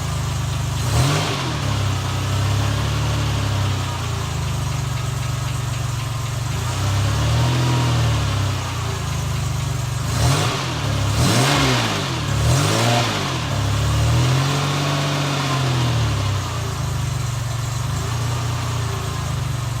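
Alfa Romeo GTV 2.0 V6 Turbo running through its stock exhaust, idling with throttle blips: a single rev about a second in, another near the middle, three quick revs in a row, then one longer rev, each falling back to idle.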